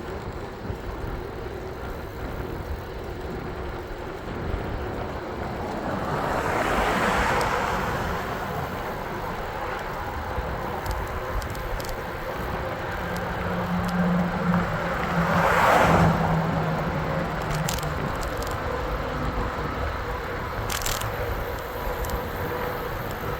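Road traffic: two vehicles pass, one about a third of the way in and another about two-thirds in, each swelling and fading, over a steady low rumble.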